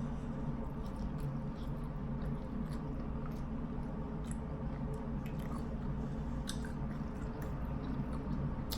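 A person chewing seafood in sauce close to the microphone, with wet squishing and scattered small clicks and smacks, over a steady low hum.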